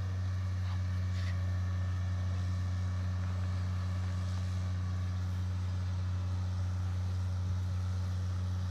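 Heavy diesel engine running steadily, a constant low drone that does not change in pitch or loudness.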